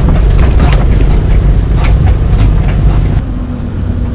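Songthaew pickup-truck taxi climbing a steep road, heard from its open back: a loud low engine and road rumble with knocks and rattles from the rough surface. A little over three seconds in, the rumble eases off and the knocking stops.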